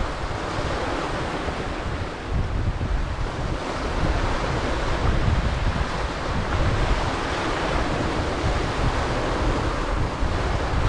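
Waves of a rough, incoming tide washing onto the shore, with steady wind buffeting the microphone as a low rumble.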